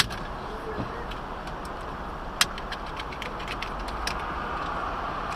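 Steady road noise of a moving car, with a sharp click at the start and another about two and a half seconds in.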